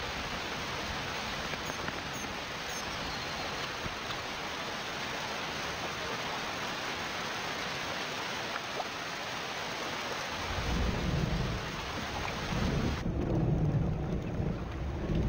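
Heavy tropical downpour, rain hissing steadily onto water. About ten seconds in, a low rolling rumble of thunder builds. A couple of seconds later the rain hiss falls away, leaving the rumble.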